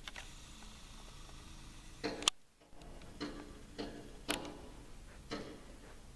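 A bird knocking its beak against a window pane over and over, in sharp, irregular taps on the glass roughly half a second to a second apart.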